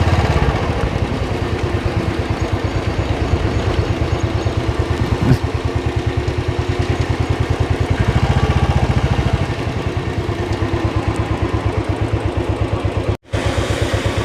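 Royal Enfield motorcycle engine running with an even, rapid pulse of firing strokes, with a single sharp click about five seconds in. The sound cuts out for a moment near the end.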